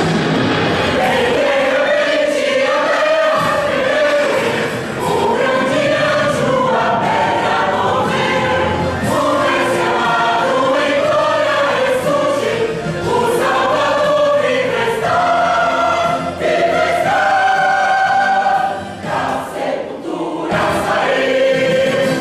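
Choir singing a gospel song over musical backing, with long held, gliding notes.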